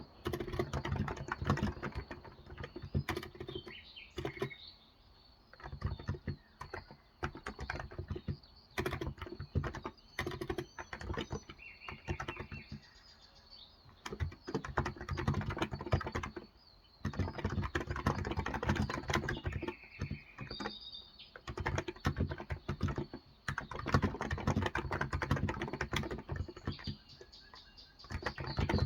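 Typing on a Cox Endeavour electrostatic-capacitive (Topre-style) 35 g tenkeyless keyboard: quick runs of soft key presses broken by short pauses. Birds chirp faintly a few times in the background.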